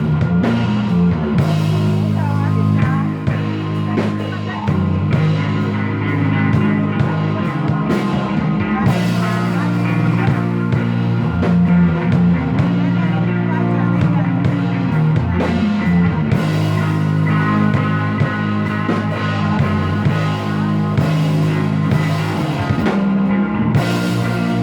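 Instrumental passage of psychedelic rock music, with guitar and drums playing steadily and no singing.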